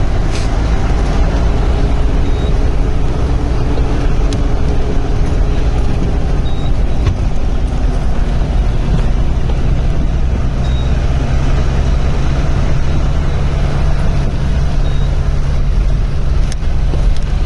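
Safari vehicle's engine running steadily as it drives, a loud, even low drone.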